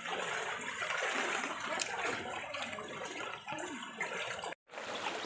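Floodwater sloshing and splashing steadily around someone wading through it. The sound cuts out to silence for a moment near the end.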